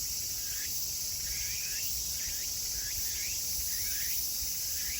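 Chorus of tsukutsukuboshi cicadas (Meimuna opalifera) calling: a steady high buzz with short rising calls repeating about twice a second.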